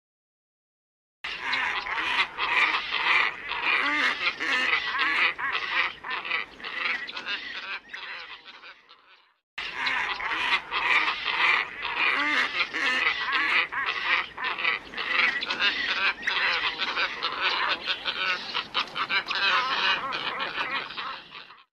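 Lure recording of a flock of black ibises calling: many harsh calls overlapping densely. They start after a second of silence, break off briefly about nine and a half seconds in, then resume and cut off suddenly near the end.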